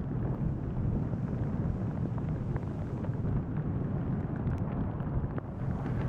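Blizzard wind buffeting the microphone: a steady low rumble of storm gusts, with a few faint clicks scattered through it.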